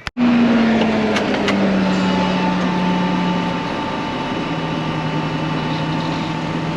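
A vehicle's engine running, its pitch easing down over the first few seconds and then holding steady, with a steady whine above it. Two light clicks about a second in.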